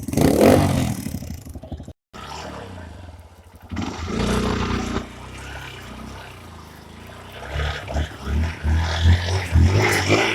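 Dirt bike engine running at low revs, getting louder with pulsing throttle near the end. A loud rushing, scraping noise comes in the first second.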